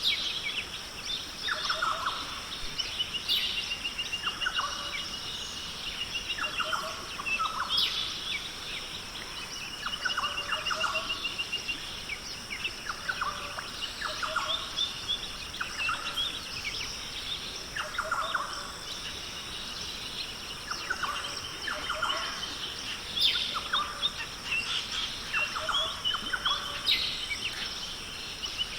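Australian rainforest birds calling over and over: short calls every second or two, mixed with rapid trills of repeated high notes. A steady high hum runs underneath.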